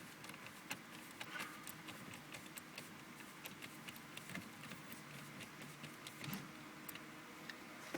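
A screwdriver backing a screw out of a car's plastic HVAC control panel, making a run of small, irregular clicks and ticks.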